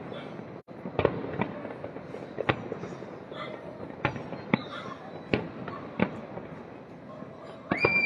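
Fireworks display: irregular sharp bangs of bursting shells, roughly one a second, over a constant crackling background. A high steady tone is held for about a second near the end.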